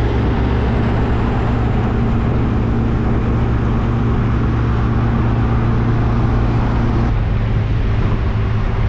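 MG Midget sports car driving along, its small four-cylinder engine running steadily under wind and road noise in the open cockpit. About seven seconds in the engine note drops lower.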